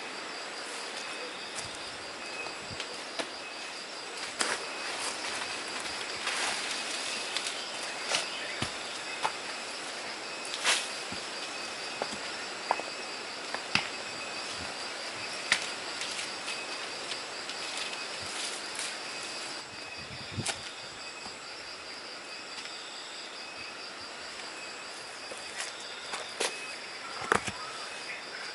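Steady insect chorus of crickets, a high, finely pulsing trill. Scattered sharp clicks and knocks through it from things being handled nearby.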